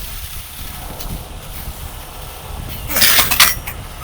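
Heavy tow trucks idling with a steady low rumble, and a short loud hiss about three seconds in.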